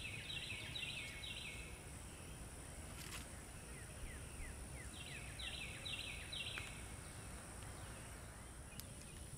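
Outdoor ambience with a bird singing: two phrases of four or five repeated high, downward-sliding notes, one near the start and one about five seconds in, with a few faint short chirps between them, over a steady low rumble.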